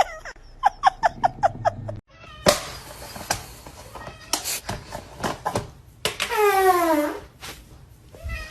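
Cat meowing: a quick run of short, falling chirp-like meows, about four a second, then knocks and scuffling, and one long meow that slides down in pitch about six seconds in.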